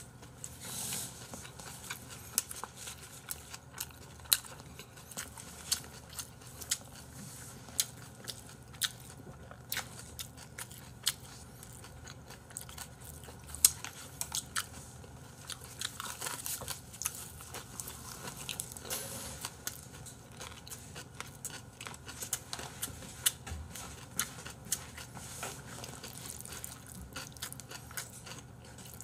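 Close-miked eating: chewing and mouth sounds of people eating bossam, boiled pork wrapped in leaves, with frequent short sharp clicks and taps throughout.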